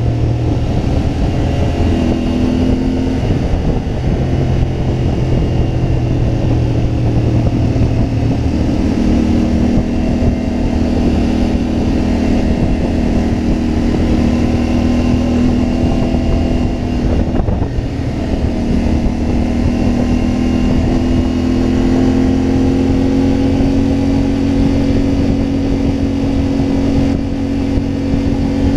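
CFMoto 450MT parallel-twin motorcycle engine running under way, its note changing with throttle and gears. The pitch steps up about 2 s in and again near 9 s, dips briefly around 17–18 s, then climbs and holds from about 21 s.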